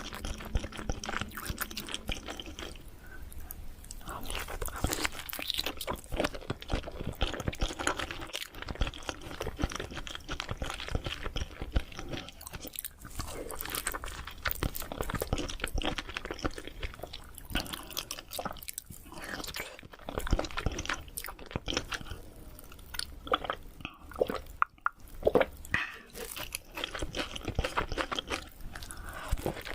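Close-miked ASMR eating sounds of a person chewing sushi: a dense, irregular run of short clicks and smacks from the mouth, with a few brief pauses.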